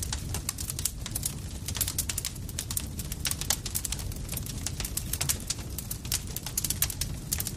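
Campfire crackling: rapid irregular snaps and pops of burning wood over a steady low rumble of the flames.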